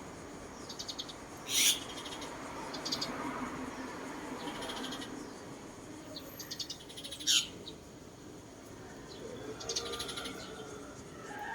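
A bird singing: short, rapid trills of high repeated notes several times over, with two loud, sharp calls that sweep downward in pitch, one near the start and one about halfway through.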